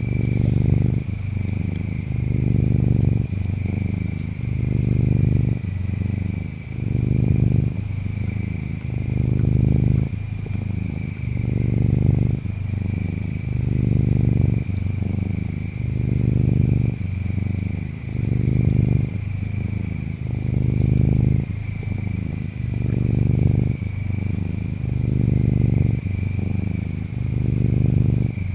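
Domestic cat purring close up, a steady low rumble that swells and fades about once every second and a bit with each breath in and out. Behind it, insects chirp: a thin steady trill, plus short high chirping bursts every four or five seconds.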